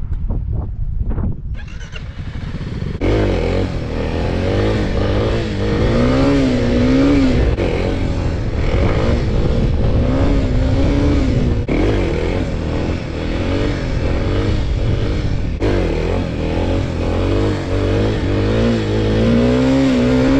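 Small 50cc dirt bike engine revving up and down again and again under the throttle as it is ridden, with a rushing noise over it. The sound cuts off and resumes abruptly several times, about every four seconds.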